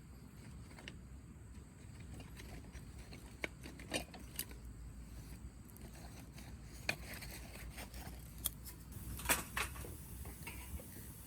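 Scattered light clicks and clinks of gear being handled, with a quick cluster of them about nine seconds in, over a low steady rumble.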